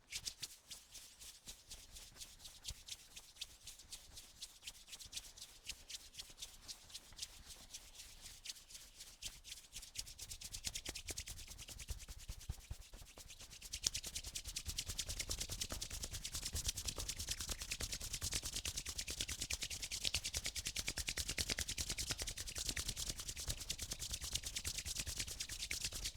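Hands rubbing quickly and steadily in a dense, scratchy rubbing sound that grows louder about halfway through.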